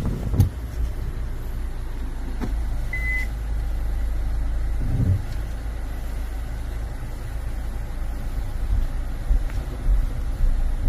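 Hyundai Tucson ix's 2.0-litre R-series diesel idling with a steady low hum, heard from inside the cabin. A single short electronic beep about three seconds in is the car's reverse-gear chime, and there is a soft thud about five seconds in.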